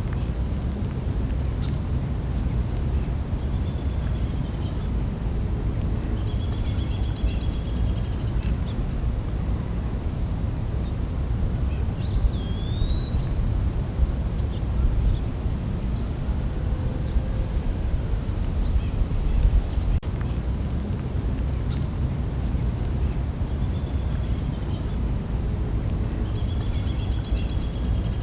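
Night-time forest insects: a steady high drone, with a cricket-like chirp repeating about three to four times a second. Short bird calls come in a few times, over a steady low rumble.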